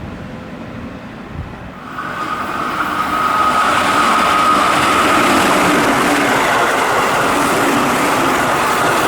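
Keihan electric train running through a station at speed. A low rumble grows loud from about two seconds in, with rail and wheel noise and a steady high whine, and it stays loud to the end.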